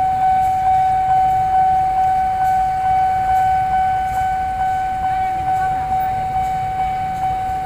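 Electronic warning alarm sounding: one steady high tone that pulses evenly, about one and a half to two beats a second, over a low rumble.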